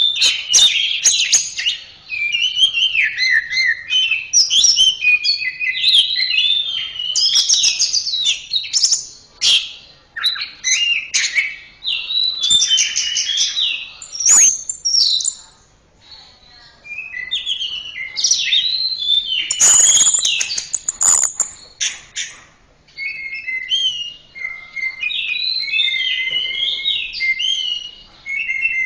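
Orange-headed thrush (anis merah) singing a long, varied song of quick whistled phrases that rise and fall. There is a short pause about halfway, and a patch of harsher, scratchy notes around twenty seconds in.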